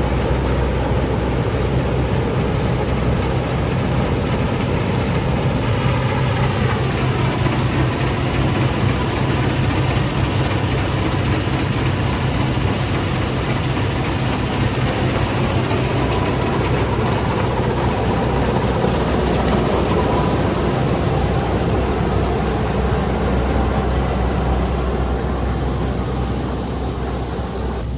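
Fortschritt E514 combine harvester running close by while cutting, its diesel engine and threshing machinery a loud steady drone; the engine note dips about seven seconds in and slowly rises again later.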